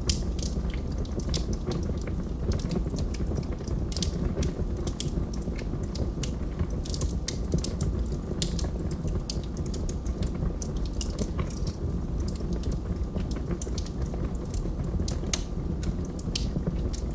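Wood fire of burning logs in a fireplace, crackling with frequent sharp pops and snaps over a steady low rumble of the flames.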